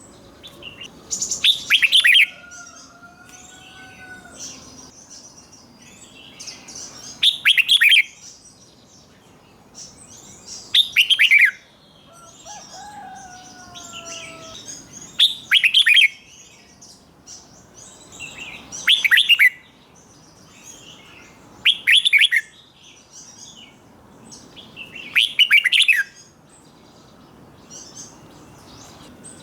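Red-whiskered bulbul singing: seven short, loud song phrases about three to four seconds apart, with softer chirps between them.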